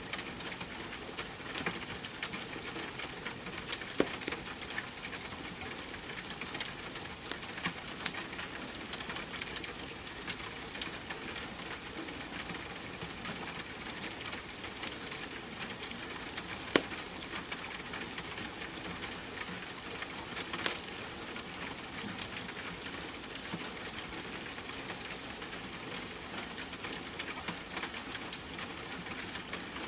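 Steady rain hiss mixed with the crackle of a wood fire in a fireplace: many small snaps, with a few sharper pops about 4 seconds in, around the middle and about two-thirds through.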